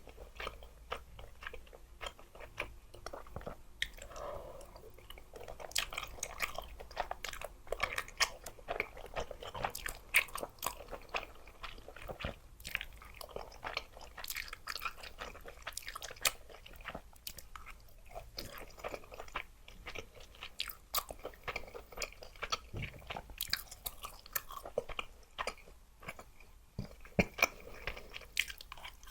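Close-miked eating of spicy luosifen rice noodles: steady wet chewing, with many small, irregular crunches and mouth clicks.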